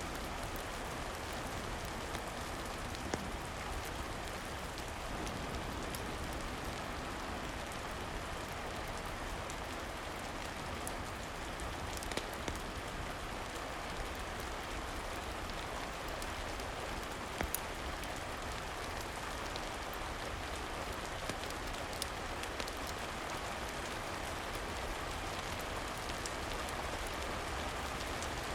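Steady rain, an even hiss of falling drops, with a few sharp pops or clicks now and then.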